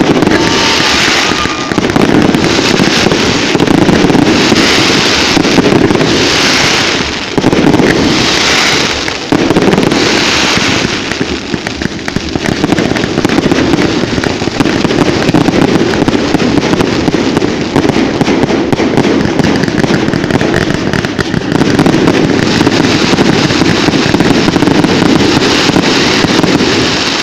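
Fireworks display: a loud, continuous barrage of shell bursts and crackle. For the first ten seconds or so, louder bursts come about every one to two seconds.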